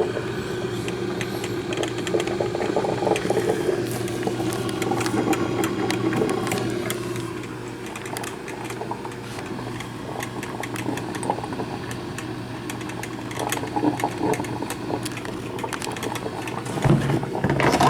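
Black & Decker thermal carafe drip coffee maker brewing: a steady hum under many small irregular crackles and gurgling pops as the heater pushes hot water through.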